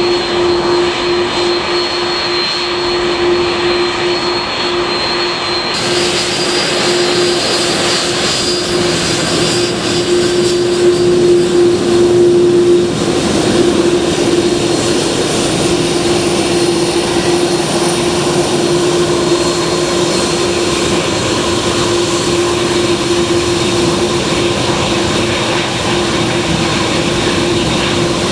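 Aircraft engines running at high power for a departure: a steady, loud drone with one strong constant tone running through it.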